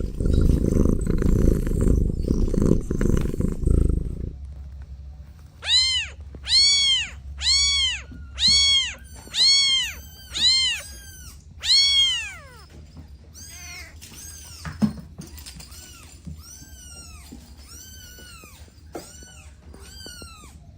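Kittens meowing: a run of seven loud, high, rising-and-falling meows about one a second, followed by fainter meows. A low rumbling fills the first four seconds.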